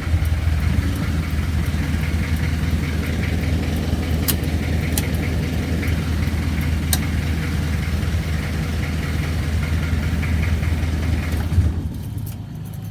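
1994 Kia Ceres pickup's 2.4 diesel engine idling steadily, then shut off near the end.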